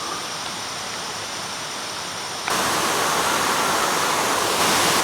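Steady rushing noise of running water; it jumps suddenly louder and brighter about halfway through.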